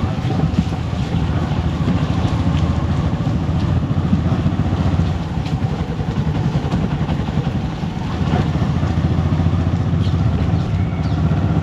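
Motorcycle engine running steadily while riding, a dense low rumble that dips briefly about eight seconds in.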